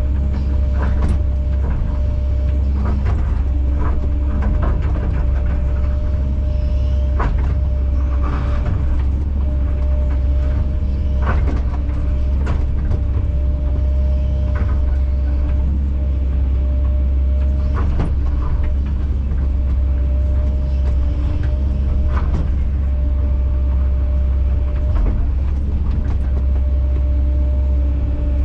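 Kobelco SK210 excavator's diesel engine running steadily, with a low drone and a steady whine, and scattered short knocks every few seconds.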